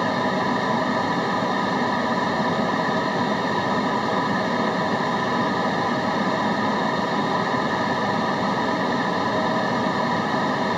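Continuous white-noise track: an even, unchanging hiss with faint steady tones running through it.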